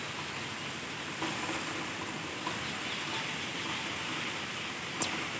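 Heavy downpour: a steady hiss of rain, with one brief click about five seconds in.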